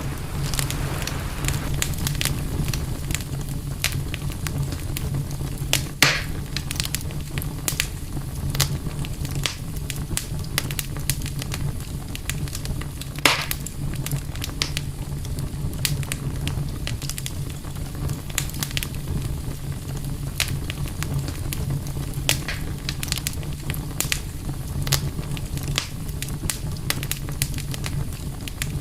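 Wood campfire crackling steadily with a dense run of small snaps, and a few louder pops about six and thirteen seconds in, over a steady low rumble.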